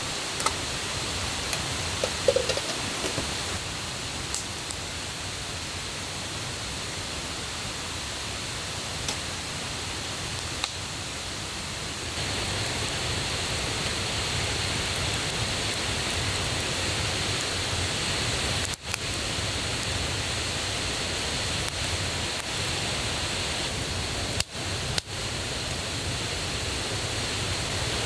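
Steady rush of a forest river and waterfall running high with rainwater, with a few sharp clicks in the first few seconds. The rush gets a little louder about twelve seconds in.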